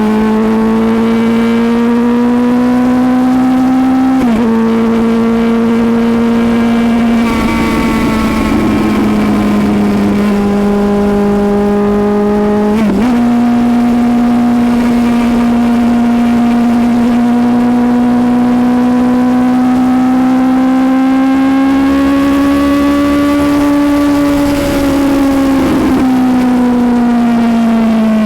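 Suzuki GSX-S750's inline-four engine pulling at road speed, its note slowly rising and falling. The revs step sharply with gear changes about four and thirteen seconds in, and the note eases off near the end. Wind rushes past at times.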